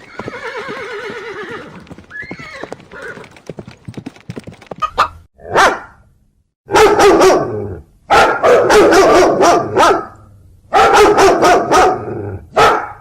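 A horse whinnies with a wavering, quavering pitch at the start, followed by scattered light knocks. Then a dog barks loudly and rapidly in several long runs, which are the loudest sounds.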